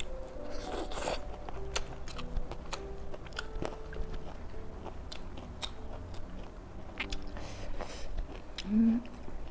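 Close-up crunchy chewing and biting of crisp vegetables: many short crackling crunches in quick succession. Soft piano music plays underneath.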